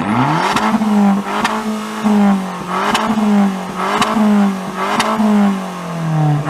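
A car engine being revved in repeated blips about once a second, each rev climbing quickly and dying away, with a sharp crack from the exhaust at about each peak.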